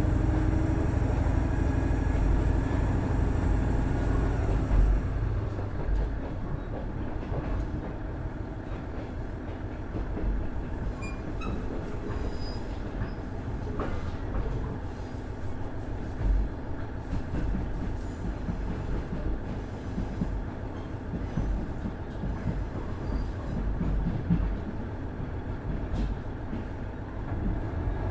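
Running sound inside a KiHa 110 series 200-subseries diesel railcar with a Cummins DMF14HZA engine: the engine note is steady for the first few seconds, then drops away about five seconds in, leaving mainly the rumble of the wheels on the rails, with a few louder knocks.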